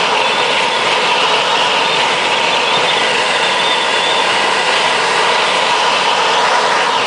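Steady, loud rush of airflow inside a glider's cockpit during its towed takeoff, with faint steady whistling tones above it.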